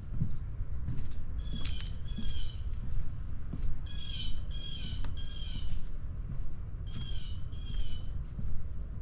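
A bird giving short, harsh, slightly falling calls in bursts of two and three, over a steady low rumble and occasional thumps.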